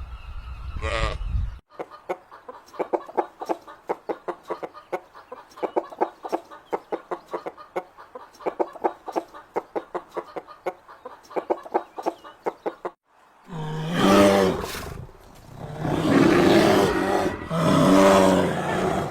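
Chickens clucking in a long run of rapid short notes, followed near the end by three louder, drawn-out calls.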